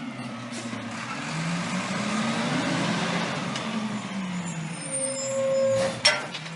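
Small motor running, its pitch slowly rising and falling. A sharp click comes about six seconds in.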